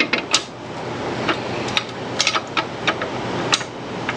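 Irregular sharp metallic clicks and clinks of a wrench tightening down the rear axle nut on a motorcycle.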